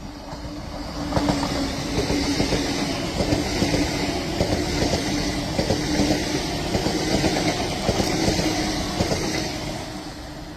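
Train passing, its wheels clicking over the rail joints over a steady running rumble that builds about a second in and fades near the end.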